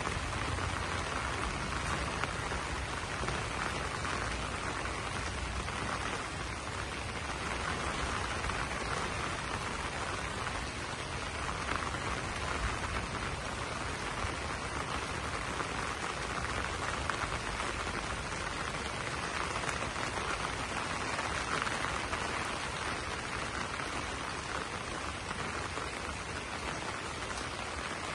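Steady rain falling on broad banana leaves: an even, unbroken hiss of drops that holds at one level throughout.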